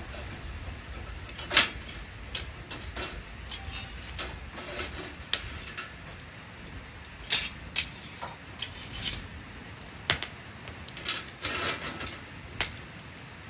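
A string of irregular sharp clicks, light knocks and clatter, about a dozen spread unevenly through the stretch, over a steady low background rumble.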